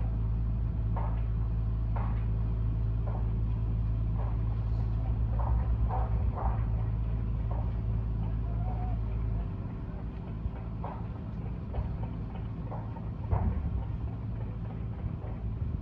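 Carrier central air conditioner running with a steady low hum that cuts off sharply about nine and a half seconds in as the unit shuts down. Short faint chirps or clicks recur throughout.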